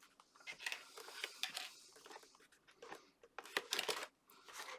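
Card stock being handled and pressed together: irregular paper rustles with light taps and clicks, busiest a little past halfway through.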